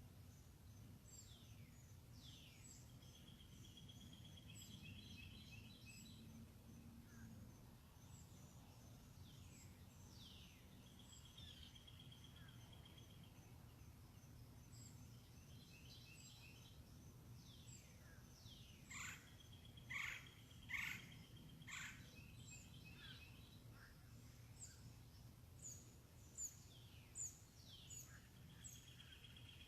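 Wild birds calling over a faint steady low hum. The calls are repeated short chirps that sweep downward in pitch, with a few held buzzy trills, and the loudest chirps come in a cluster about two-thirds of the way through.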